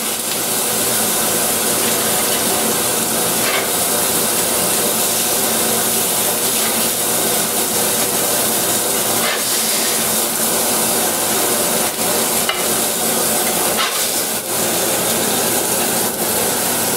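Beef burger patties sizzling loudly and steadily in their own grease on a searing-hot cast-iron flat iron, with a few clicks and scrapes of a metal spatula against the iron.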